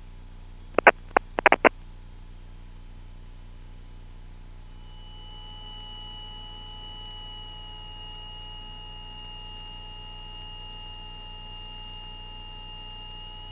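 Cessna 172S cockpit sound through the headset intercom on final approach: the low, steady drone of the engine and propeller. A few short clicks come about a second in, and a faint, steady high-pitched tone starts around five seconds in.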